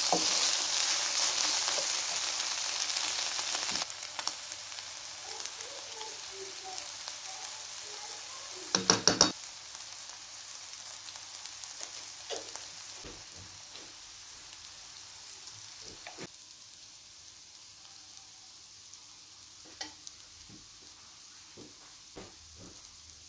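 Food sizzling as it fries, loud for the first few seconds, then dropping to a quieter sizzle that slowly fades, with small pops. A quick cluster of loud clatters comes about nine seconds in, and light knocks are scattered near the end.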